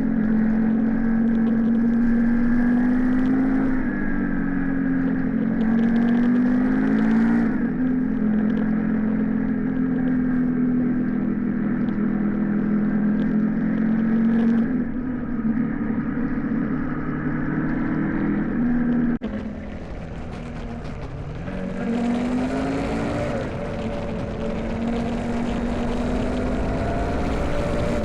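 Motorcycle engine running at cruising speed, its pitch rising and falling with the throttle. About two-thirds of the way through, the engine note drops off suddenly and dips, then climbs again under a stronger rush of wind.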